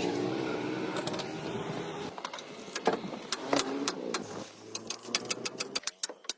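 A motor running steadily, fading slowly and stopping about six seconds in, with scattered clicks and knocks.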